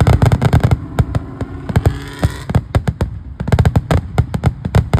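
Fireworks going off in rapid crackling volleys, many sharp bangs a second. They are thick for the first second, thin out through the middle, and pick up again about three and a half seconds in.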